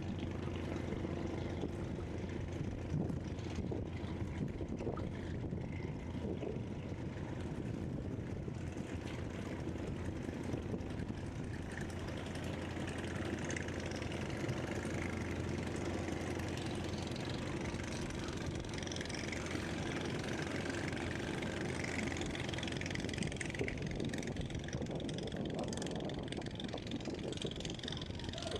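A steady low engine drone running without a break, with faint high chirps above it from about halfway through.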